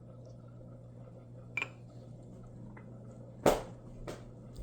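Quiet room with a steady low hum, a small click about a second and a half in and one sharp knock at about three and a half seconds, followed by a fainter tap.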